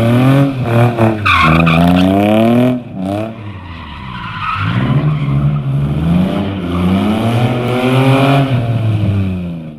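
Car engine revving hard, its pitch climbing and dropping again and again, with tyre squeal as in drifting; it eases off about three seconds in, builds back up, and stops suddenly near the end.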